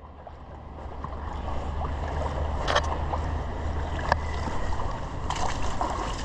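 Rushing water of river rapids: a steady noise with a low rumble underneath and a few short knocks.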